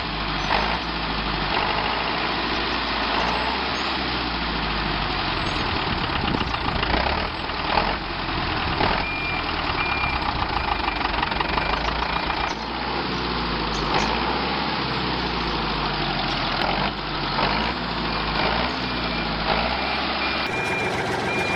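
Motor of a DIY miniature tractor running steadily, its pitch wavering up and down as the load changes. A thin high tone sounds twice, once near the middle and once near the end.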